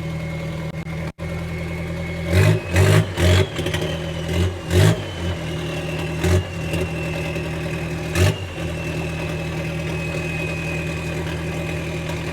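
Car engine idling steadily, with a quick series of short throttle blips a couple of seconds in and two more single blips later, before it settles back to idle.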